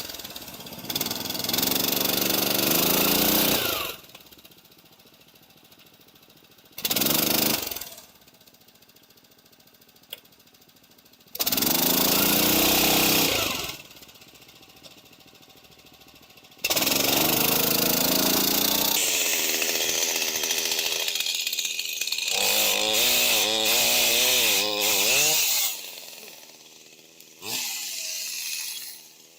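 Tofalar 600 motorized snow tow's small engine revving up in repeated bursts, each rising in pitch as it pulls through deep snow, with quiet pauses between the bursts.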